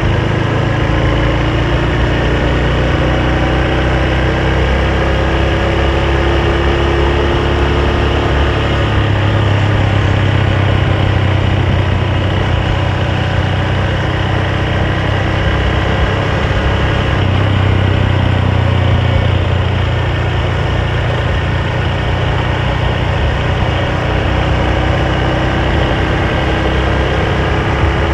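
Honda Super Cub's single-cylinder four-stroke engine running steadily under way, its pitch drifting slightly up and down.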